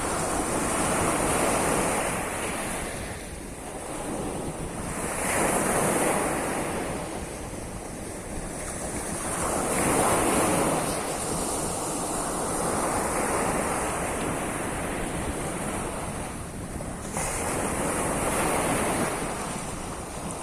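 Surf of the Sea of Azov washing onto the shore, swelling and ebbing in waves a few seconds apart.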